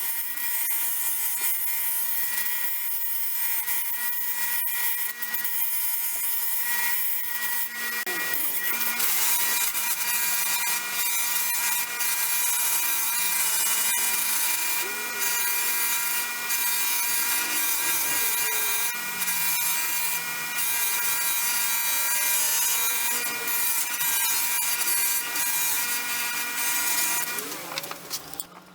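Belt sander running with a steady motor whine and a rough grinding hiss as the steel pliers are pressed to the belt to polish them. Near the end the sander is switched off and the sound dies away.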